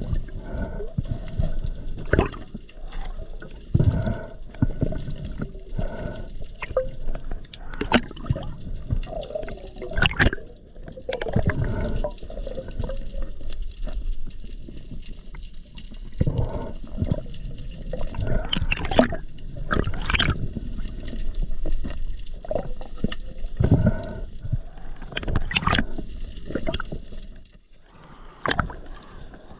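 Water sloshing and gurgling, broken by irregular knocks and splashes.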